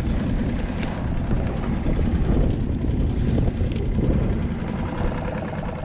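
Steady low rumble of wind buffeting the microphone on an open skiff on the water.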